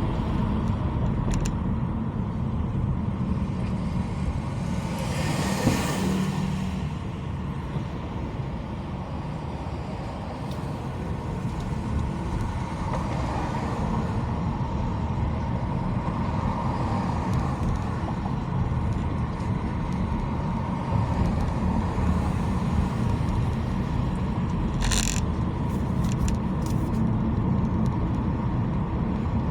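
Steady road noise of a car driving on a freeway: a low rumble of tyres and engine. A broad whoosh swells and fades about five seconds in, and a brief hiss comes late on.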